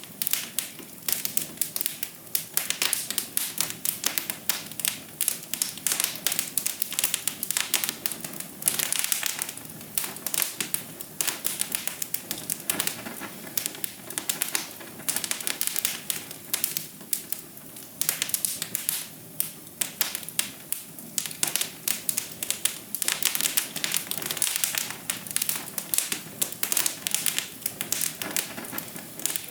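Wood fire crackling in a fireplace: a dense, irregular run of small snaps and pops over a soft steady hiss.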